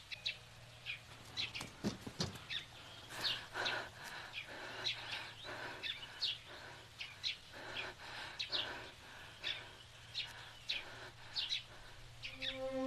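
Small birds chirping faintly, short high calls repeating every second or so, over a steady low hum.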